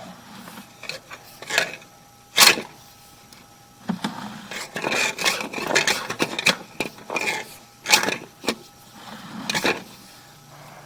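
Sewer inspection camera's push rod being fed through a guide tube in a cleanout, scraping and rubbing in irregular bursts with a few sharp knocks.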